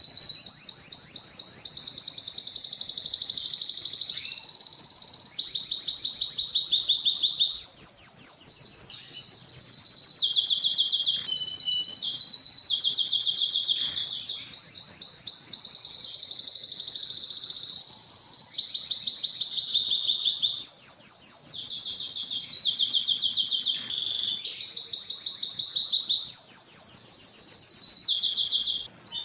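Domestic canary singing a long, continuous song of rapid high trills. Each trill runs a second or two before the bird switches to another, with only a few brief breaks.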